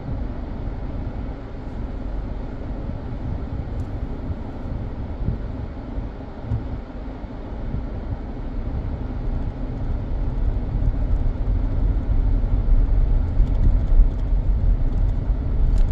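Mazda 3 driving, heard from inside the cabin: a steady low rumble of road and engine noise that grows louder over the second half as the car starts over rough ground, with a few knocks near the end.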